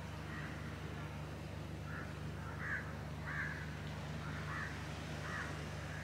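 A bird giving short calls over and over, about one a second, against a steady low hum.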